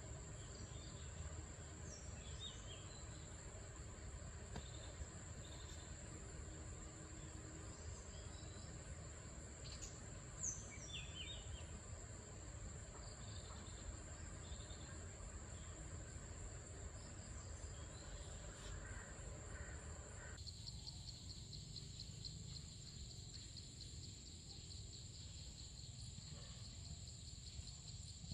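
Forest insects trilling steadily in one high continuous tone, with a second, lower pulsing trill joining about two-thirds of the way through. A few short bird chirps come in the first half, over a faint low rumble.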